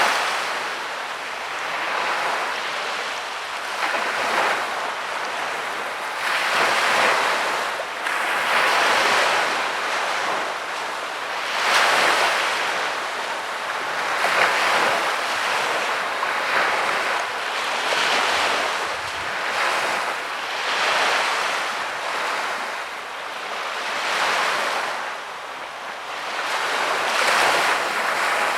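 Sea waves breaking and washing up on a beach, a hissing surge every two to three seconds.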